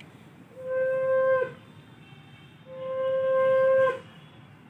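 A wind instrument blowing two long, steady notes at the same pitch, the second longer, each dipping slightly in pitch as it ends.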